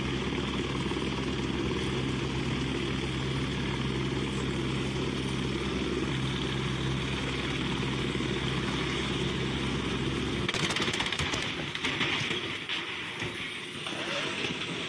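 Steady drone of a vehicle's engine with a low hum; about ten seconds in it changes abruptly to a noisier rushing sound with crackles.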